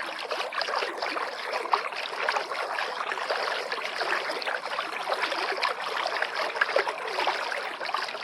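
River water lapping and gurgling steadily, a dense run of small irregular splashes and plops.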